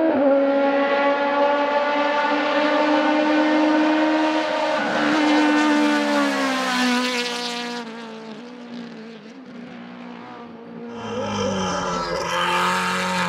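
Hillclimb race car engine at high revs passing close by. Its note falls as the car goes past, then fades away. About eleven seconds in, a second race car comes up loud.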